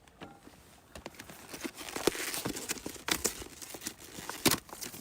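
Crinkling and rustling, with scattered sharp clicks and knocks; the loudest knock comes near the end.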